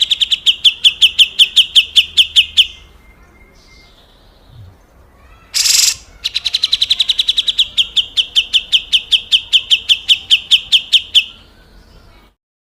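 Cucak jenggot (grey-cheeked bulbul) giving its harsh, rattling 'besetan' call. It comes as two long runs of rapid, evenly spaced notes, about seven a second, with a single harsh burst in the pause between them. The second run stops near the end.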